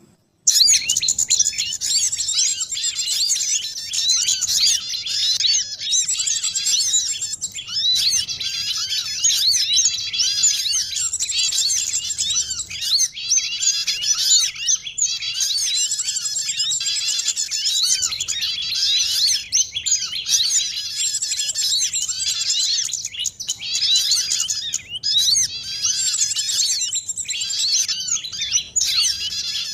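A bird-lure recording of many small songbirds calling at once: a dense, unbroken chorus of overlapping high chirps and trills that starts abruptly about half a second in.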